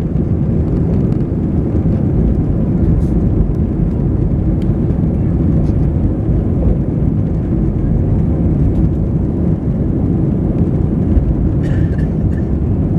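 Airbus A320 cabin noise after takeoff: the steady, loud rush of the jet engines and airflow, heard from inside the cabin.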